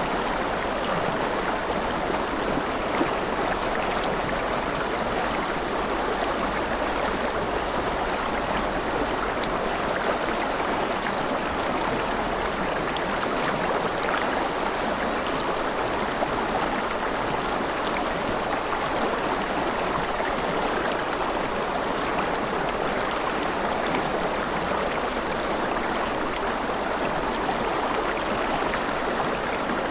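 River water flowing and splashing steadily, an even rushing sound without breaks.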